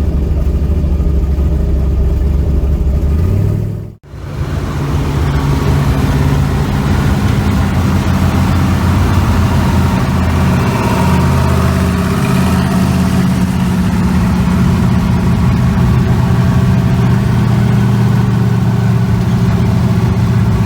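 Car engine running, heard in two stretches split by a sudden break about four seconds in; the engine note rises just before the break and shifts up and down a few times afterwards.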